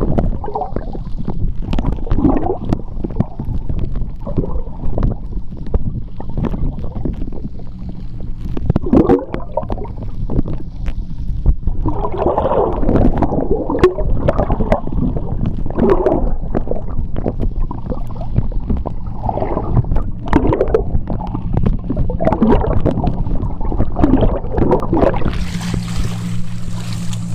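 Seawater heard underwater: an uneven low rumble with repeated gurgling swells of bubbles and scattered sharp clicks. Near the end a steady low hum and a hiss come in.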